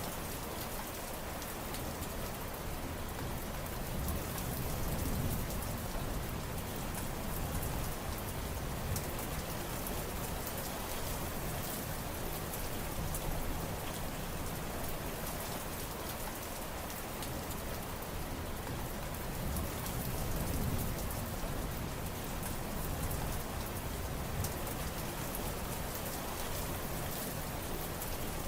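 Steady heavy rain falling, a constant hiss of drops on surfaces with many fine drop ticks. Low rumbling swells rise and fade twice.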